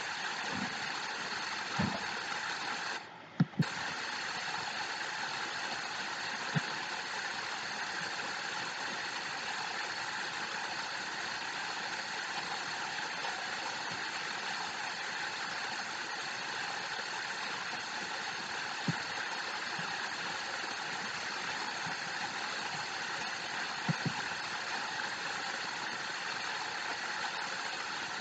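Steady rushing of falling water from a waterfall, an even hiss with no rhythm. It cuts out for a moment about three seconds in, with two sharp clicks, and a few faint knocks come through later.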